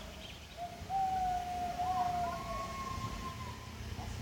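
Faint, distant howling: two long, nearly level-pitched howls, the second higher one starting about two seconds in and overlapping the first.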